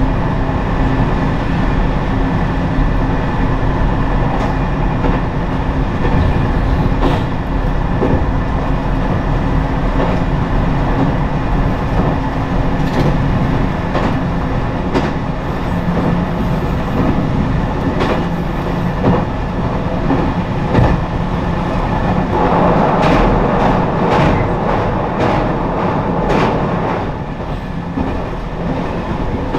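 Ise Railway diesel railcar running along the line, heard from inside the car: a steady engine and running drone with the wheels clacking irregularly over rail joints.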